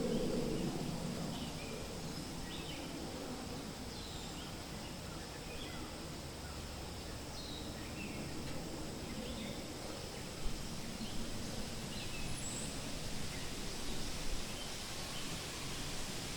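Wind rustling through forest leaves, with a gust swelling near the start, and small birds giving short, scattered chirps and calls throughout.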